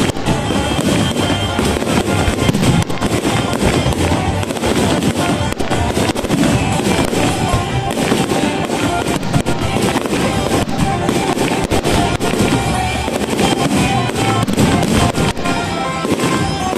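Aerial fireworks display: a dense, unbroken run of bangs and crackling from bursting shells, with music playing alongside.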